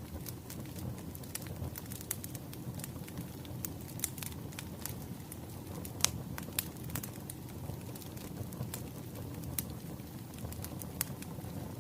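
Crackling wood fire: a steady low rumble of burning logs with irregular sharp pops and snaps, the loudest about six seconds in.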